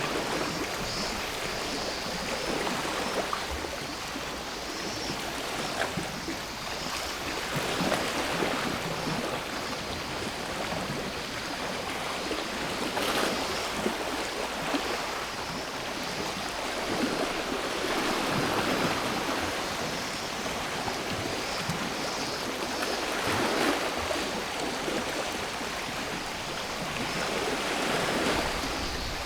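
Sea waves washing onto a shore: a steady surf hiss that swells about every five seconds as each wave breaks, with a faint steady drone of cicadas behind it.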